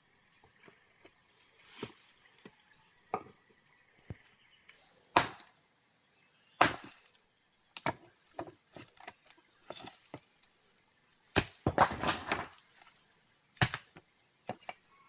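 A series of irregular sharp knocks from manual work, with a quick run of clattering hits about twelve seconds in.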